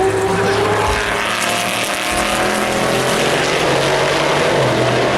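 Race car engines running on the circuit, several engine notes overlapping at a steady, loud level.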